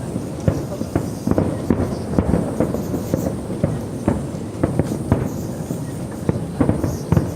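Aerial fireworks bursting in quick, irregular succession, several bangs a second.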